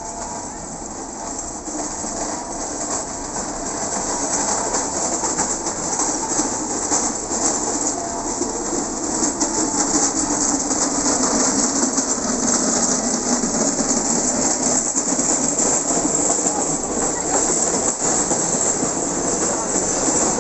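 Jet aircraft passing overhead: a loud, steady engine roar with a hissing top that swells over the first few seconds and then holds, while a low tone slowly falls in pitch.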